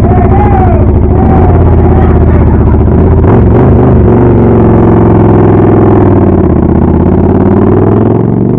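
A motor vehicle engine running loud and close, steady with slight rises and falls in pitch, fading off near the end.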